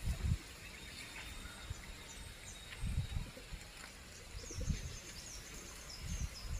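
Small birds chirping in short, high, quick notes, a run of them in the second half, over a few low rumbling bumps on the microphone.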